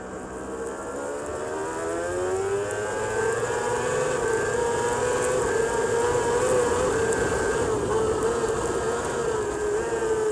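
Racing superbike engine heard from an onboard camera, its revs rising over the first couple of seconds, then held high and fairly steady with slight wavers before easing off near the end.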